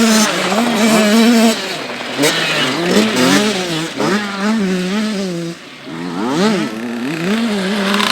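Motocross motorcycle engines revving hard, their pitch climbing and dropping again and again with throttle and gear changes. A second bike's engine overlaps about six to seven seconds in.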